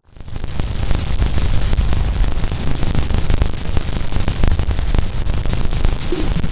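Loud crackling static, dense with clicks over a low rumble, starting abruptly: a space recording played back as sound.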